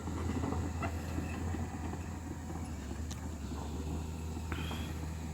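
An engine running steadily with a low, even rumble and hum.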